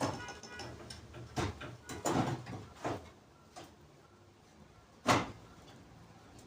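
Metal car parts being handled and fitted: a series of knocks and clunks in the first few seconds, then one sharp, louder knock about five seconds in.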